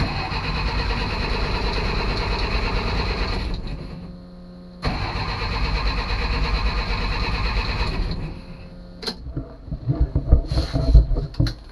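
Starter cranking the 1967 Kaiser M715 Jeep's Tornado overhead-cam straight-six in two attempts of about three and a half seconds each, with a steady pulsing beat, and the engine does not fire: there is still no spark after a new distributor coil. A few knocks follow near the end.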